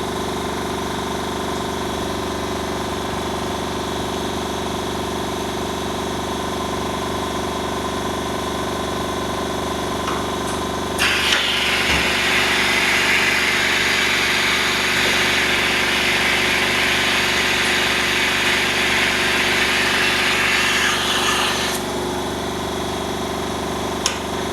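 External vacuum pump of an LCD laminating machine running steadily with a hum. About eleven seconds in, a loud hiss starts and runs for about ten seconds before cutting off.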